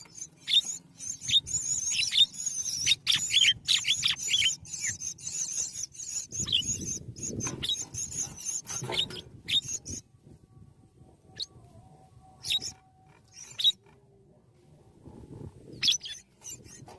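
Coucal nestlings giving rapid, high-pitched squeaking calls for the first ten seconds or so, then only a few scattered squeaks. A low rustle comes midway.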